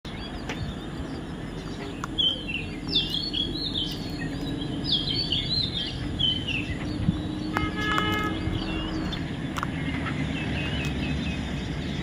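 Birds chirping in a quick run of short, sliding calls, thickest in the first half and thinning out after, over a steady hiss of outdoor background noise. A short horn-like tone sounds about two-thirds of the way through.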